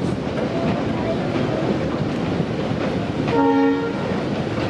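Passenger train running across a steel railway bridge over the sea, a steady rumble, with one short horn blast of about half a second a little past three seconds in.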